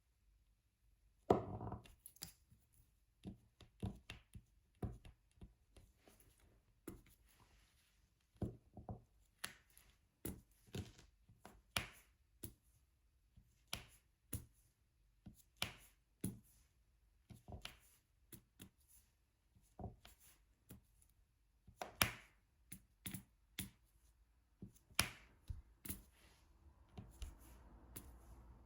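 Diamond painting drill pen picking up resin drills and pressing them onto the adhesive canvas: a steady run of light, irregular taps and clicks, one or two a second.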